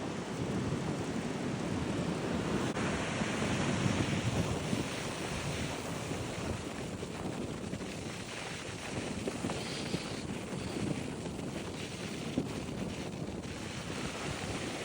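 Steady rushing noise of wind on the microphone and surf, slightly louder in the first few seconds.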